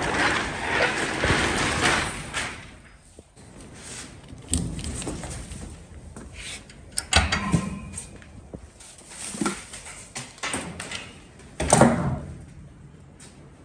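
A roll-up door rattling as it rolls for the first two seconds or so, then a series of separate metal clunks and bangs. The loudest bang comes near the end.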